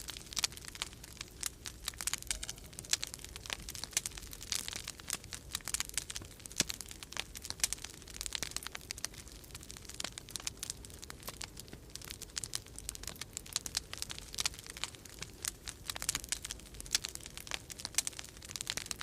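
Wood fire crackling in a fireplace: a dense, irregular run of small pops and snaps, with a low steady rumble of storm wind underneath.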